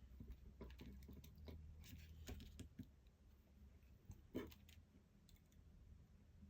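Faint, scattered light clicks of a button being pressed on an iPod nano 5th generation, to test whether it still works. One sharper click comes about four and a half seconds in.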